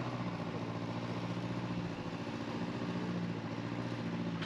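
Excavator's diesel engine running steadily at a constant low pitch, with an even, rapid firing pulse.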